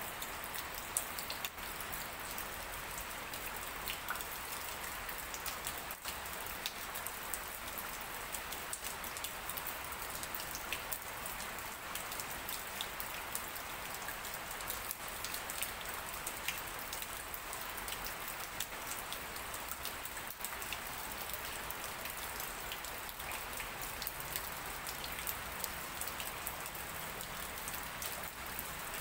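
Light steady rain (drizzle) falling on leaves: a constant hiss with many small, separate drop hits.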